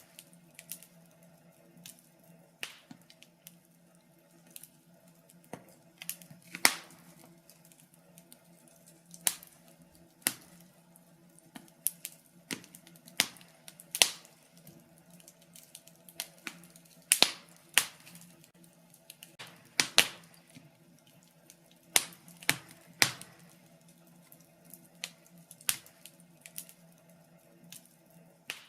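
Wood fire in a fireplace crackling, with irregular sharp pops and snaps, some much louder than others, from one to several a second.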